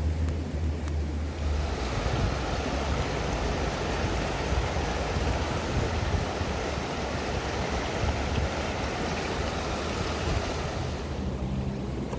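Food sizzling in hot oil in a pan over an open fire: a steady hiss that sets in about a second and a half in and dies away near the end. A low hum sits under the first second or so.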